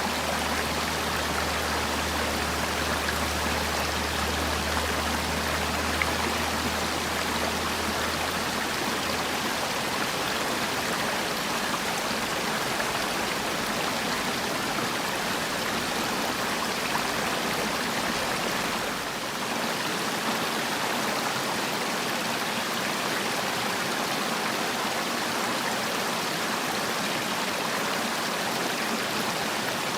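Mountain valley stream flowing steadily over rocks, an even rushing of water. A faint low hum fades out about nine seconds in.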